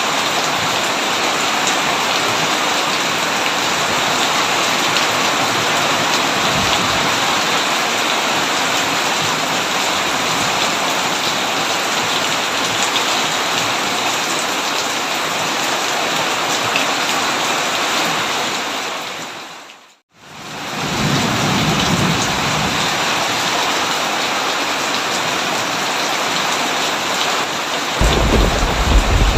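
Heavy rain falling steadily on a tin roof, a dense even hiss. About two-thirds of the way through it fades briefly to silence and back, and near the end a low rumble of thunder sets in.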